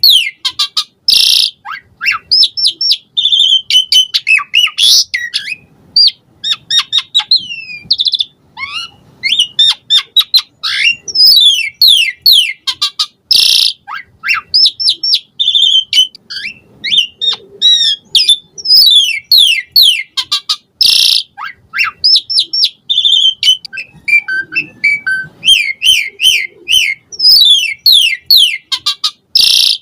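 Pied starling (jalak suren) in full, varied song: a quick run of falling whistled notes, trills and repeated chips, broken about every eight seconds by a loud harsh screech.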